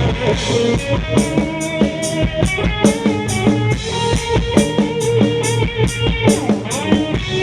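Live rock band playing an instrumental passage between sung lines: a steady drum-kit beat with snare and cymbal hits over bass and electric guitar.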